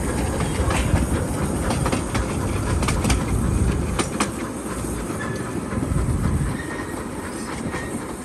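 Miniature railway train running along its track: a steady low rumble with scattered sharp clicks, easing off a little after about six seconds.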